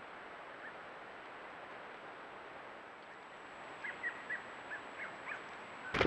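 Steady hiss of a trail camera's microphone, with a series of six or seven short, high bird call notes about four to five and a half seconds in.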